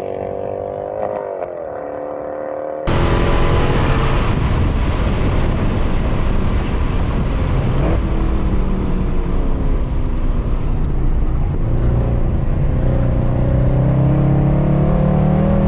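Mercedes C63 AMG's 6.2-litre V8 with its secondary catalytic converters and resonators deleted, driven hard: it runs more quietly at first, then about three seconds in jumps abruptly to full-throttle loudness and stays there, its pitch climbing near the end.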